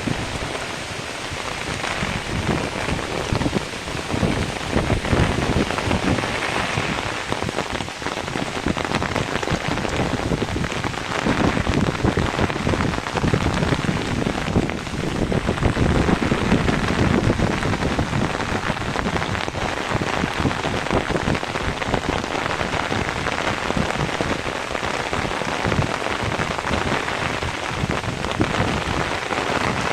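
Heavy rain pouring down steadily, a dense patter of drops on surfaces, swelling a little around the middle.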